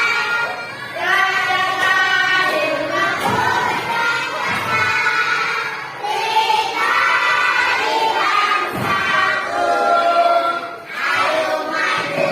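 A group of young children singing together in chorus, in phrases of a second or two with short breaks.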